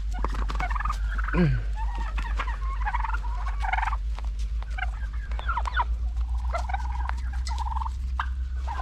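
A flock of domestic turkeys calling, with many short, overlapping yelps and clucks throughout and scattered sharp clicks. A steady low rumble runs underneath.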